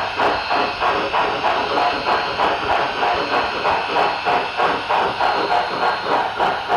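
Steam exhaust chuffs from a LokSound 5 sound decoder in an HO scale model steam locomotive, played through its onboard speaker: a steady, even rhythm of about four chuffs a second.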